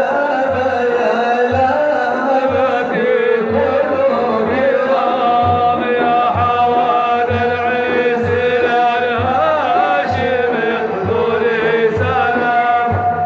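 Male voice singing an Arabic devotional madih in a chanted, ornamented line, over low drum beats.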